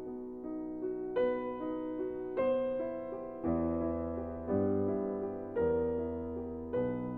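Soft background piano music: a slow melody with a new chord struck about every second, and bass notes joining about halfway through.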